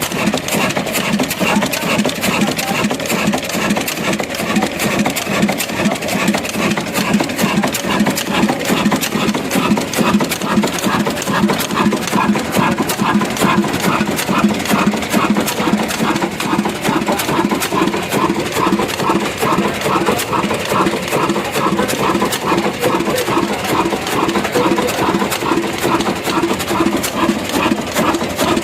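Heavy diesel engine running steadily with a rapid, even beat of firing strokes.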